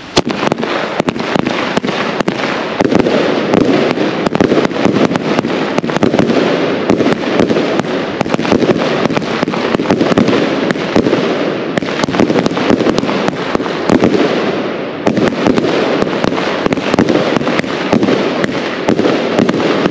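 Fireworks going off without pause: a dense run of sharp bangs and crackle that starts suddenly and keeps going, with a brief lull about fifteen seconds in.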